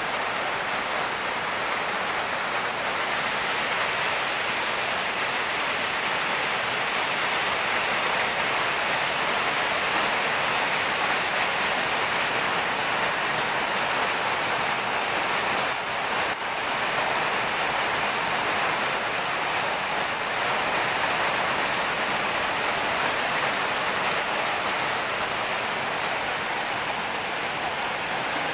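Steady rain falling on palm trees and leafy undergrowth: a dense, even hiss.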